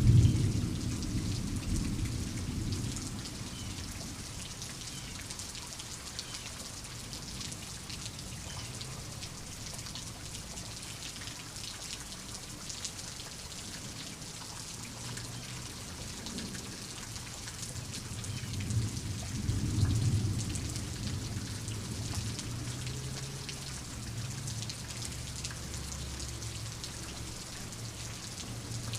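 Steady rain pattering, with low thunder rumbling: a roll fading over the first few seconds and another swelling and dying away about two-thirds of the way through.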